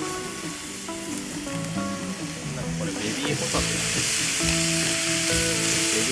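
Baby scallops frying in a hot pan: a sizzle that swells about halfway through as they go in and stays loud, over background music.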